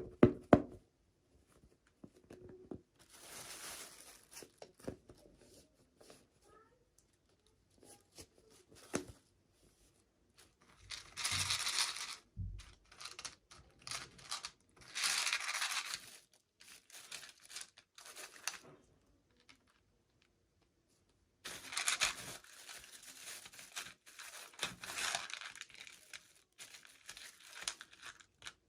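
Packaging for miniature toys being torn open and crinkled by hand in several separate bursts, with small clicks and taps between them.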